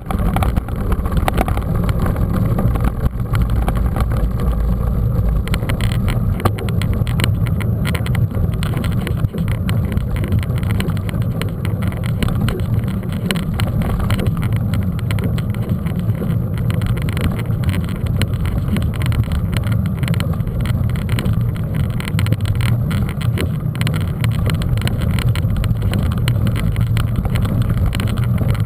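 Ride noise from a camera on a moving mountain bike: steady wind rumble on the microphone, with frequent small rattles and clicks from riding over a rough track.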